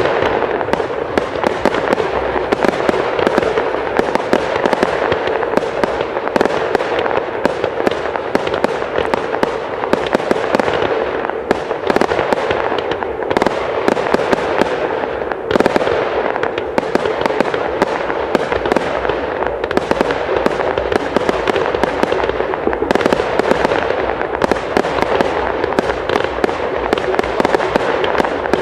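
Aerial fireworks display: a dense, continuous stream of crackling and popping shell bursts, with a few louder cracks scattered through it.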